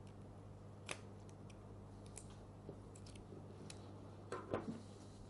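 A few faint, scattered clicks and small scrapes of hand work on the switch wiring of a Bosch GSH 5 demolition hammer as the switch leads are detached, with a short cluster of louder clicks near the end. A steady low hum runs underneath.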